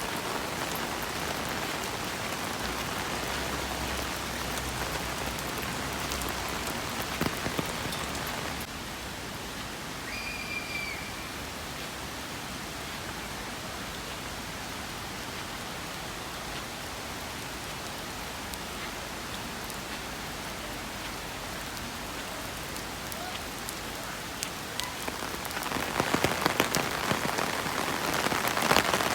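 Steady rain falling, with individual drops ticking; the drops grow louder and denser near the end. A brief high chirp sounds about ten seconds in.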